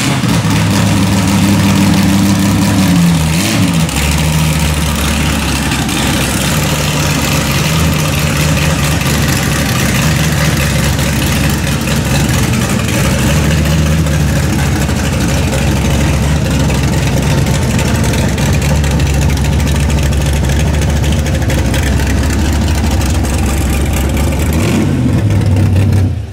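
Car engine running loudly and steadily. Its pitch drops over the first few seconds, then holds with small rises and falls, and eases off near the end.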